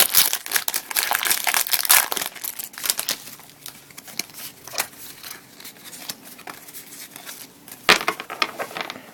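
Pokémon trading-card booster pack wrapper being torn open, its foil plastic crinkling and tearing, loudest in the first three seconds, then quieter rustling with a sharp crinkle about eight seconds in.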